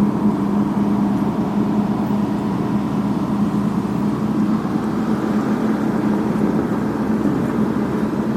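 Diesel engine of road-paving machinery running steadily, a continuous low hum without change.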